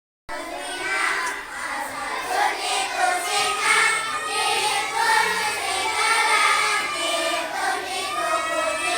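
A group of children singing together in chorus, starting abruptly just after the start.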